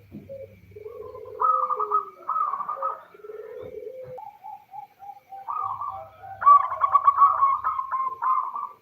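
Female zebra dove (perkutut) cooing: lower drawn-out coos in the first half, then loud, rapid trilled phrases in the second half. It is a female's call, used to draw male zebra doves into answering.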